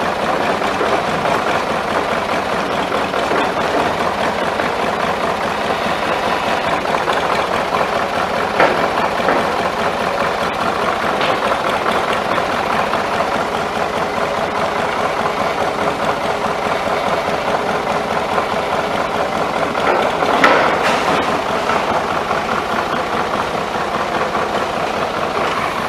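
Ford 4500 backhoe's engine running steadily while the backhoe is worked, with short clunks about 9 seconds in and again about 20 seconds in.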